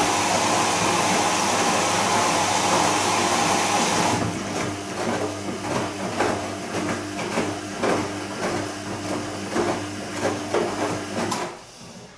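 Bosch Serie 2 VarioPerfect washing machine early in its wash: a steady water hiss, typical of the machine filling, cuts off about four seconds in. The drum then turns with water sloshing and soft knocks over a motor hum, and stops shortly before the end.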